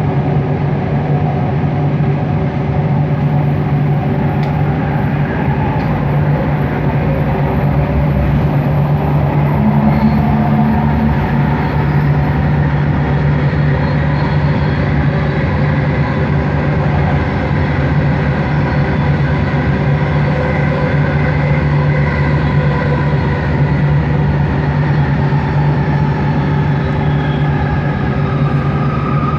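Bombardier Innovia ART 200 train running at speed, heard from inside the car. Its linear induction motors make a steady hum and whine over the running noise, with a faint whine gliding in pitch near the end.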